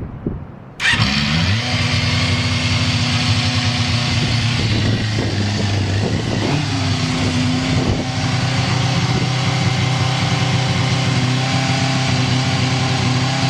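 Yamaha FZ250's inline-four engine started on the electric starter, catching at once about a second in, then idling steadily with no abnormal noise.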